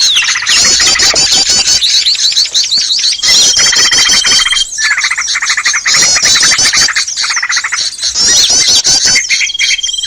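Bird-lure recording of many small songbirds calling at once: a loud, dense chatter of rapid chirps and trills. A long steady whistle is held for about a second and a half near the middle, and another starts near the end.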